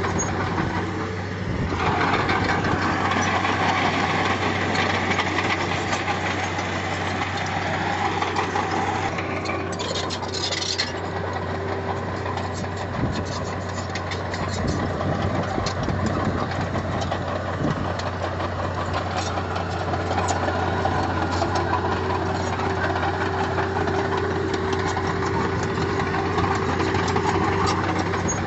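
Diesel engine of heavy earthmoving equipment running steadily, with a brief hiss about ten seconds in.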